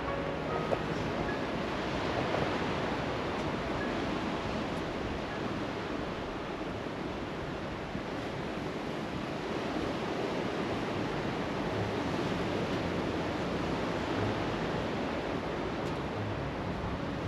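Sea waves washing onto the beach, a steady rushing surf.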